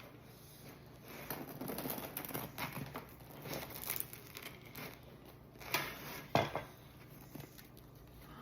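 Crisp, dark-baked crust of a sourdough loaf crackling and crunching as it is handled and broken into, in irregular clusters, with two sharper cracks about six seconds in.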